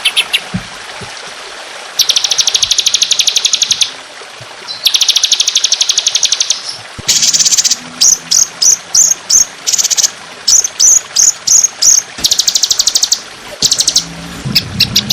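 Songbird masteran recording: long rapid trills of about two seconds each, the close-set 'tembakan' bursts, alternating with runs of short, high whistled notes at about four a second. A low hum comes in near the end.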